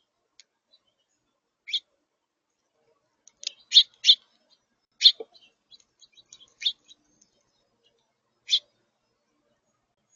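Short, sharp bird chirps, about eight of them, high-pitched and irregularly spaced, some in quick pairs.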